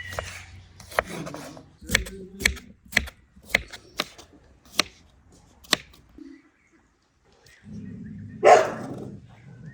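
A series of about ten sharp knocks, spaced roughly half a second to a second apart, then a short pause and a louder noisy burst near the end over a low steady hum.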